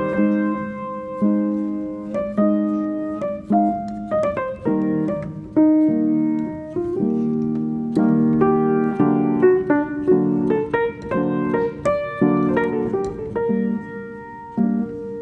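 Background piano music: a gentle tune of struck notes and chords, each note fading after it is played.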